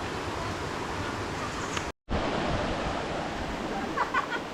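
Steady rush of a waterfall pouring into a pool, with a brief cut to silence about two seconds in.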